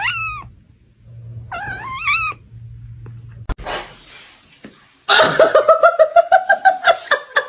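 Domestic cat meowing twice in short rising-and-falling calls, then, after a sharp click, a long loud yowl that pulses rapidly, from about five seconds in.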